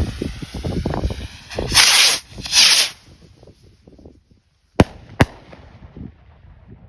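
Two small firework rockets launching, each with a short hissing whoosh about half a second apart, then bursting with two sharp bangs close together about three seconds later.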